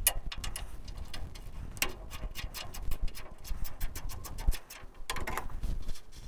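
Quick metal clicks and ticks from a wrench working a brake line fitting loose on a truck frame, coming several a second for a stretch in the middle, over a low rumble.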